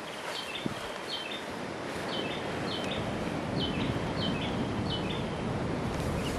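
A bird calling outdoors, short high chirps repeated about twice a second, over a steady background hiss.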